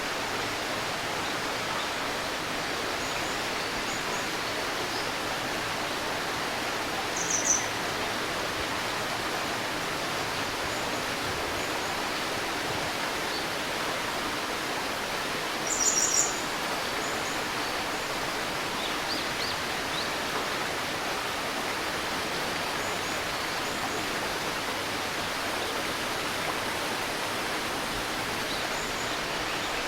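Steady babbling of a shallow river. A bird chirps sharply and briefly about seven seconds in and again, louder, about sixteen seconds in, with faint distant bird calls between.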